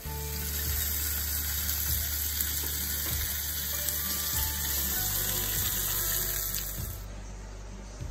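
Hot oil sizzling hard in a frying pan with garlic cloves and a bone-in tomahawk steak searing in it. The loud sizzle cuts off about seven seconds in.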